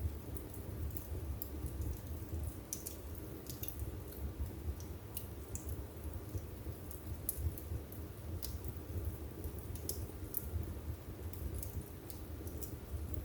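Wood fire burning in a fireplace: a steady low rumble of the flames with irregular crackles and pops from the burning wood.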